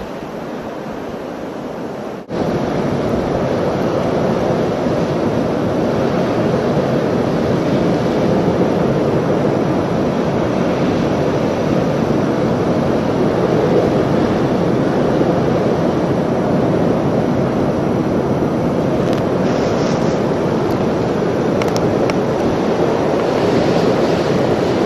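Blizzard wind blowing hard across the microphone, a steady rush of noise with no engine tone in it. It jumps louder at a cut about two seconds in.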